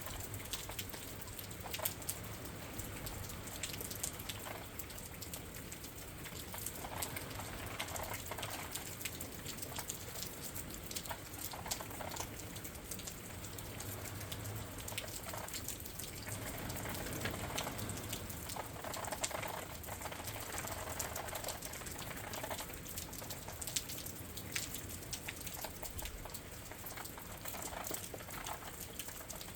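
Steady rain heard through a window, its drops pattering and ticking, with wind gusting in soft swells that rise and fall several times.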